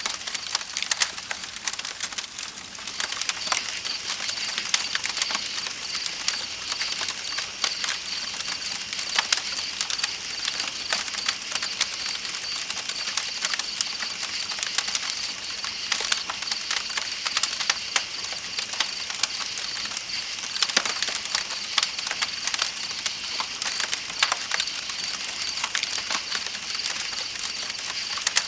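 Campfire crackling with many irregular sharp pops, over steady high-pitched chirping of night insects and the hiss of a flowing river.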